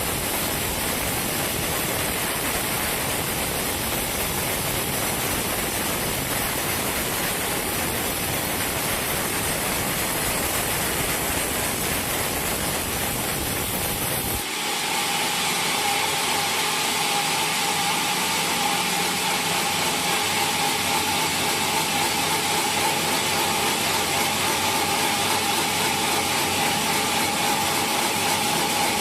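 Sawmill machinery running steadily. About halfway through the sound changes abruptly to a higher-pitched run with a steady whining tone and less rumble.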